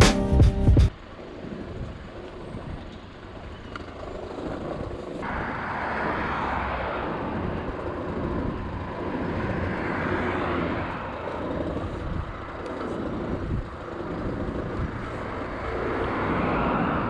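A short bit of music cuts off about a second in. After that comes motorbike riding noise, mostly wind rushing over the microphone with the small engine underneath, growing louder about five seconds in as the bike picks up speed.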